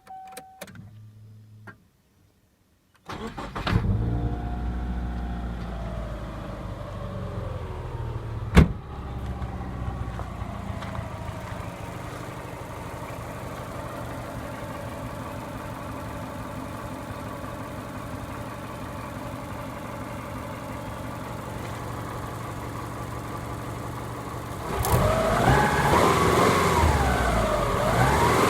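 Car engine cranked and started about three seconds in, running with its power-steering belt removed; the idle settles and runs steadily, with one sharp click about five seconds after the start. Near the end it gets louder, with the pitch rising and falling as it is revved.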